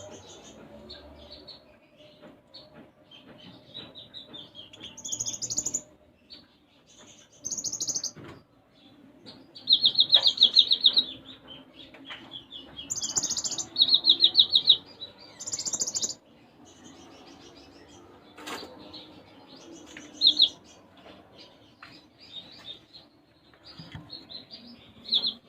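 A konin songbird singing in bursts of fast, high chirping trills separated by short pauses. Its song is filled with mimicked sparrow chirps.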